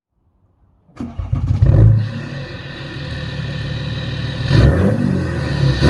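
BMW F30 330d's straight-six turbodiesel with a 76 mm stainless straight-pipe exhaust starting up about a second in, flaring and then settling to a steady idle, with a short rev near the end.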